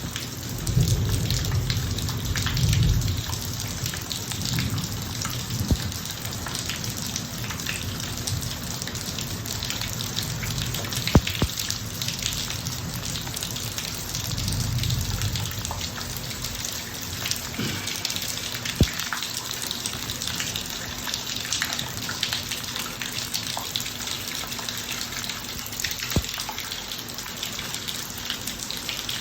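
Steady rain pouring on a driveway, with a few sharp drip taps scattered through it. Low rumbles of distant thunder swell near the start and again about halfway through.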